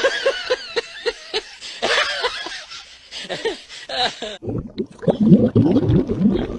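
A person laughing in quick repeated bursts. About four seconds in, the sound cuts to lower, rougher vocal sounds.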